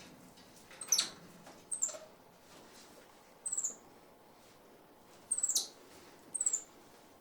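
White-faced capuchin monkey giving short, high-pitched chirping squeaks, five of them spread out, each dropping slightly in pitch.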